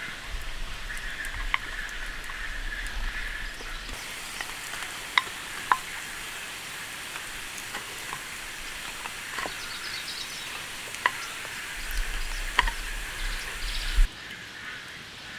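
Steady rain hiss with scattered sharp drops tapping at irregular moments, the loudest near the end.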